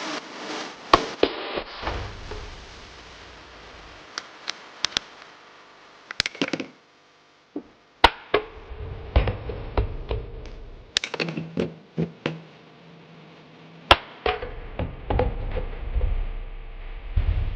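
Plastic toys being handled: irregular sharp clicks, taps and knocks, with a few dull thuds and some light rustling between them.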